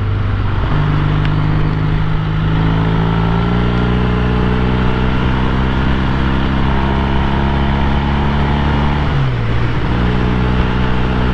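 1968 Triumph T120 Bonneville's 650 cc parallel-twin engine running under way at a steady pitch, heard from the rider's seat with wind noise. About nine seconds in, the note dips briefly and then picks up again.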